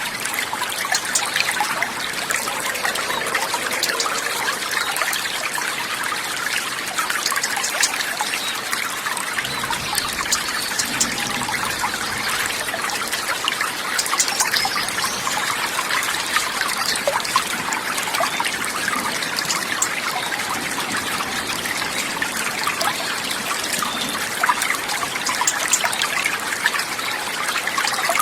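Steady trickling and babbling of running water, an even wash of sound sprinkled with fine splashy ticks.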